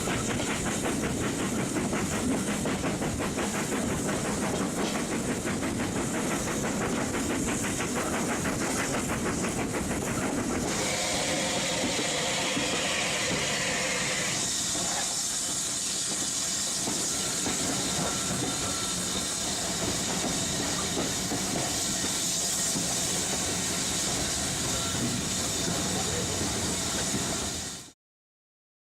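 Steam-hauled train running with a rapid rhythmic beat, then about ten seconds in a loud steady steam hiss takes over and holds until the sound cuts off near the end.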